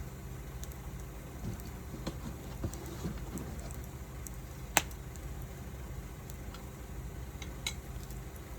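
Wood fire burning, with sparse crackles and small pops and one sharp, loud crack about five seconds in. A steady low hum runs underneath.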